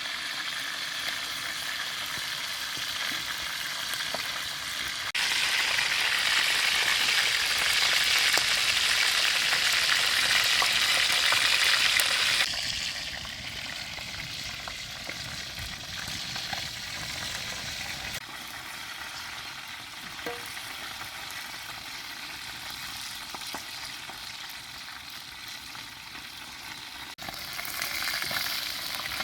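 Food sizzling in hot oil in a pan, a steady crackling hiss. It jumps louder about five seconds in, drops back about halfway through, and shifts level suddenly again near the end.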